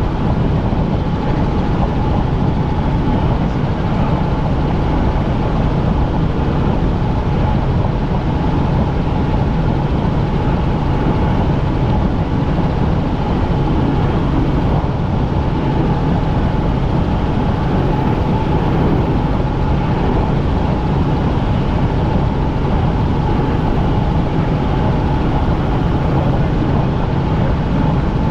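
Helicopter in flight heard from inside the cabin: a loud, steady drone of engine and rotor, with a low hum and a constant higher whine.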